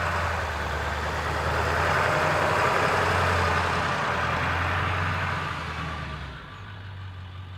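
Diesel pickup truck engine running steadily, its sound falling away about six seconds in.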